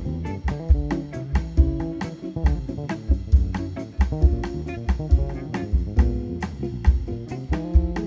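Instrumental jazz-style tune played live by a small band: guitar chords and bass over a drum kit keeping a steady beat.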